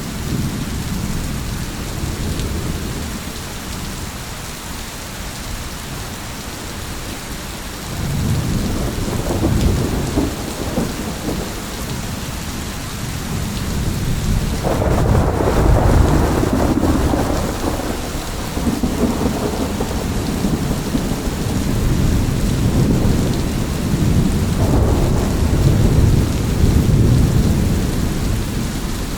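Steady rain falling through a thunderstorm, with rolling thunder swelling up several times. The strongest roll comes about halfway through.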